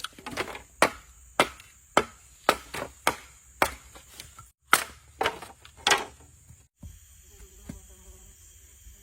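Repeated chopping strokes into wood, about two a second, which stop roughly seven seconds in. After that, a steady high insect drone with a faint buzzing hum.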